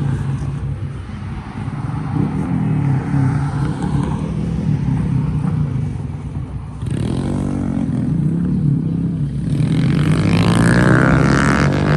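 Motorcycle engines running as bikes ride past at low speed. About seven seconds in another engine cuts in, and near the end a louder one passes with its pitch shifting.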